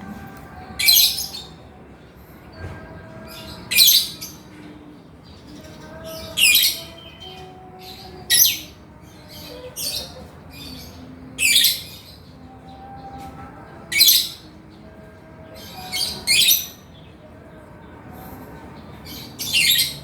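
Male lovebird giving short, shrill calls, about ten of them spaced every two to three seconds, with two in quick succession about two-thirds of the way through.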